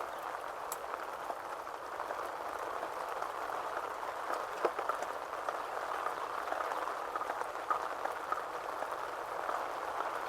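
Steady heavy rain falling, with scattered drops ticking close by.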